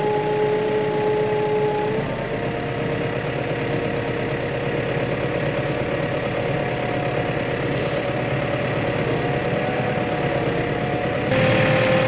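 Farm tractor engine running steadily at low revs in first gear while still cold, with a steady whine that steps up slightly in pitch about two seconds in and again near the end, where it also gets louder.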